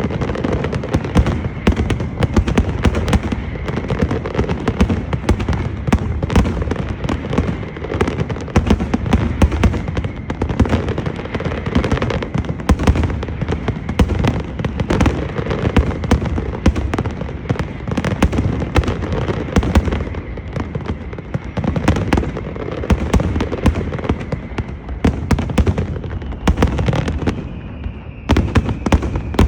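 Dense, continuous barrage of fireworks and firecrackers: rapid overlapping bangs over deep booms, with no let-up until a brief thinning near the end before the bangs pick up again.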